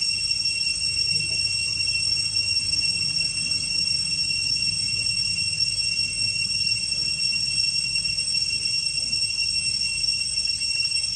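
Steady high-pitched whine, one held tone with a higher overtone, with faint ticks about twice a second over a low rumble.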